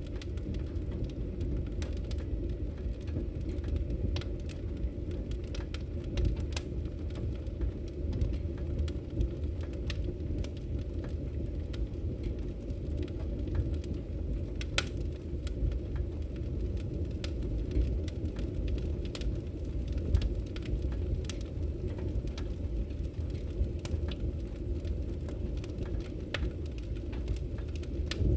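Wood fire in a fireplace burning with a steady low rumble, crackling and popping irregularly throughout, with a couple of louder pops midway.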